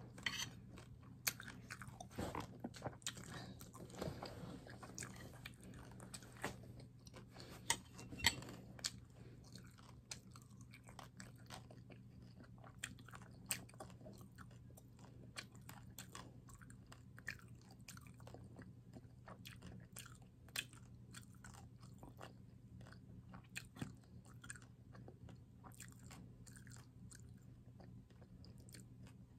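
A person chewing a mouthful of rice and dried fish close to the microphone with the mouth closed: soft, irregular small crunches and clicks. A faint steady low hum runs underneath.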